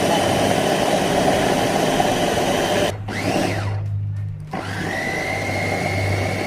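Electric blender blending a wet marinade of onion and mint with a little water. Its motor runs with a steady whine and cuts out about three seconds in. It then spins briefly up and back down, runs steadily again, and stops near the end.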